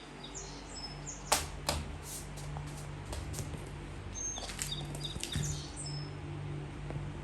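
Small birds chirping in short high notes, with two sharp clicks or knocks about a second and a half in, over a steady low hum.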